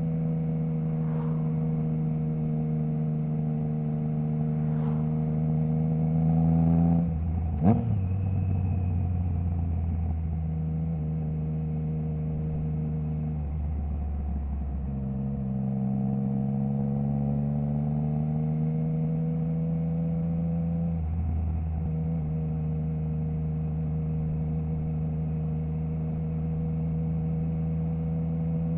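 Triumph Trident 660's inline three-cylinder engine running through a Zard stainless full exhaust with the baffle removed, ridden at a moderate, fairly steady pace. The engine note climbs gently and steps in pitch several times as gears change, with one sharp crack from the exhaust about eight seconds in.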